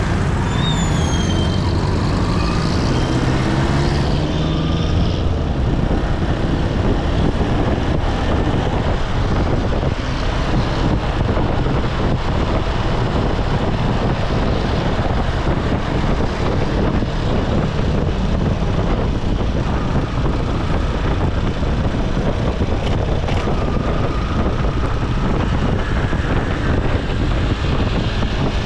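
Motorcycle riding in traffic: the engine running under way over steady road and wind noise, its pitch shifting in the first few seconds.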